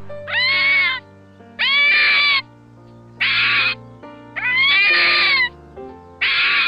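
Five short, high animal cries, each rising and then falling slightly in pitch, over background music.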